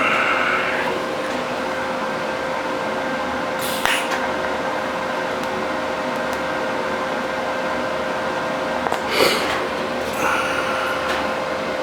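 Steady whirring hum of a shop fan blowing, with a constant tone under it. A few short sharp knocks come through it, the loudest about nine seconds in, with brief higher whines at the start and near the end.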